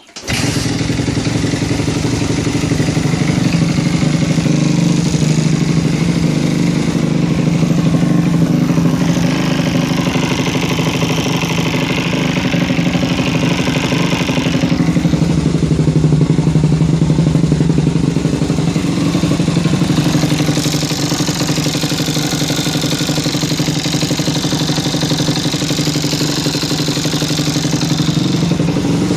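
Suzuki RM-Z motocross bike's single-cylinder four-stroke engine running at a steady idle with a clattery note, a noise its owner finds suspect.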